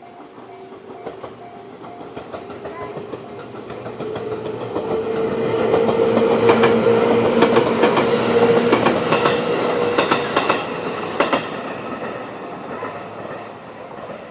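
JR 211 series electric train passing over a level crossing: the running noise swells to a peak about six seconds in, with rapid clacks of wheels over rail joints and a steady motor hum, then fades away. The crossing's JR-standard electronic warning chime repeats underneath, drowned out while the train is loudest.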